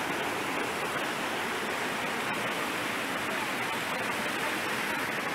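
Steady rush of running water, an even hiss with little deep rumble.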